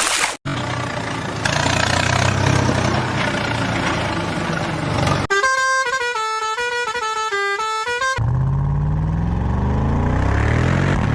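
Truck engine sound running steadily, then a vehicle horn playing a short stepped tune for about three seconds, then the engine revving with rising pitch.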